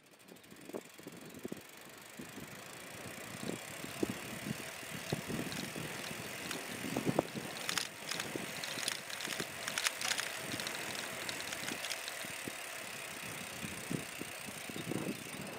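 Bicycle being ridden: tyre noise and a steady hiss of movement, with many small rattles and knocks from the frame and parts over the bumps of the path.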